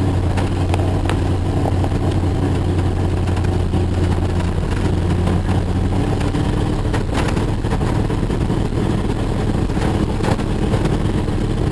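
Jeep engine running steadily under way, heard from inside the cab, with scattered knocks and rattles.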